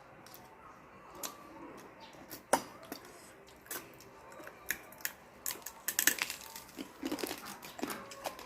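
Irregular clicks and crunching from someone eating, with a denser run of louder crackles about six seconds in.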